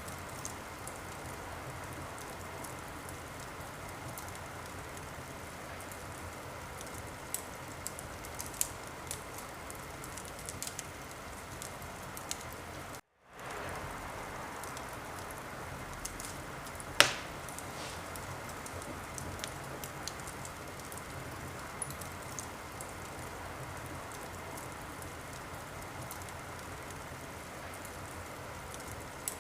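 Wood fire crackling steadily, with a soft hiss and scattered small pops and one sharp, loud pop about two thirds of the way through. The sound cuts out completely for a moment near the middle.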